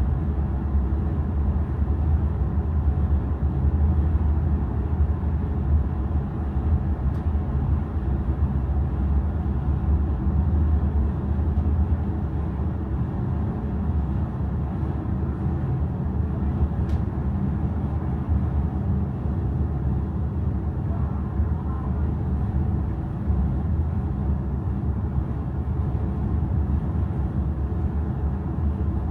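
Steady low rumble of a large car ferry under way, its engines and hull droning evenly with no change in pitch.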